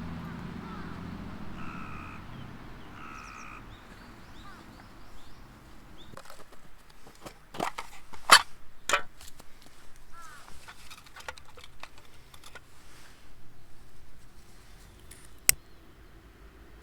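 Two short bird calls, each about half a second, while a low rumble fades away; then an irregular run of clicks and sharp snaps, the loudest about eight seconds in and a last lone snap near the end.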